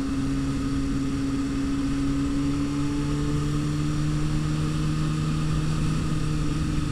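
Kawasaki Ninja sport bike's engine running at a steady, even pitch while cruising, with wind and road noise under it.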